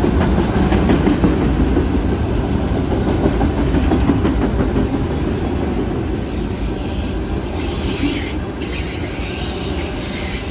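Freight train of autorack cars rolling past close by: a steady rumble of steel wheels on rail with scattered clicks as the wheels cross rail joints. A brighter hiss joins in about two seconds before the end.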